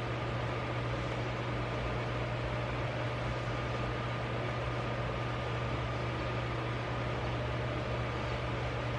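Steady machine hum with a low drone, a faint high whine and an even hiss, unchanging throughout, like a running fan or household appliance.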